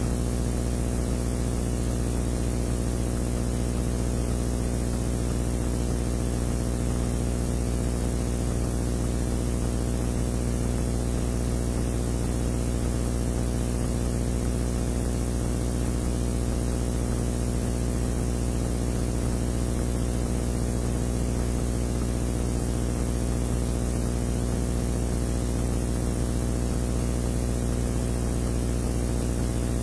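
Stationary Mitsubishi Pajero rally car's engine idling: a steady, unchanging low hum over a hiss, heard through the car's onboard camera.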